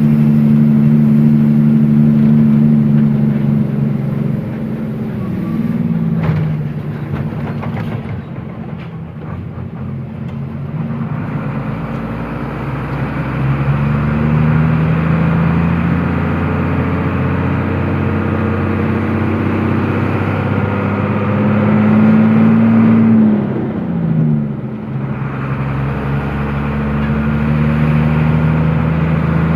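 Truck engine running under way, its note climbing as it pulls. The pitch drops at a gear change about five seconds in and again near the end.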